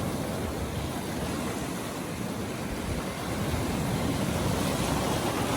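Steady rushing noise of rough sea surf and wind, heaviest in the low end, with no distinct strokes.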